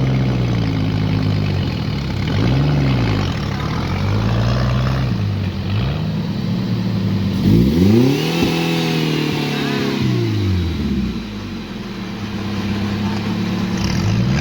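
A 4x4 off-road vehicle's engine is revved up and eased off several times, its pitch rising and falling in a series of throttle blips. The biggest rev comes about halfway through.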